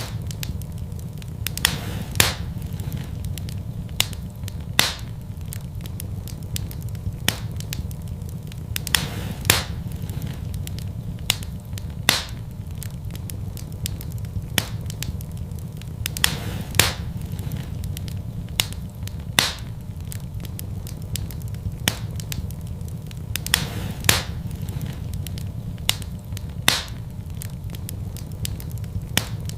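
Wood fire in a fireplace crackling: sharp pops every two to three seconds and fainter crackles over a steady low rumble.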